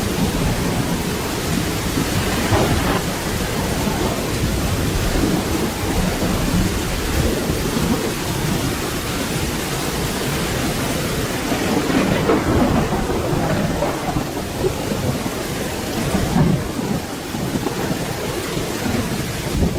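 Steady rain falling, with low rolling thunder rumbling underneath, swelling slightly louder about twelve seconds in.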